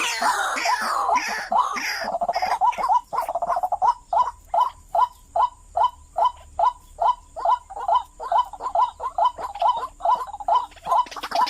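White-breasted waterhen (ruak-ruak) calling: a jumbled run of overlapping calls for the first few seconds, then a steady series of short repeated notes, about two and a half a second.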